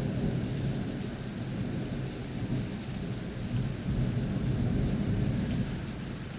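Rolling thunder rumbling low under steady rain. The rumble swells again about four seconds in and dies away near the end.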